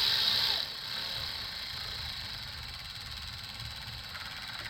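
Power tool with a 13 mm socket running an intake manifold bolt down, its motor whirring steadily. It is louder and higher for about the first half second, then runs on more quietly.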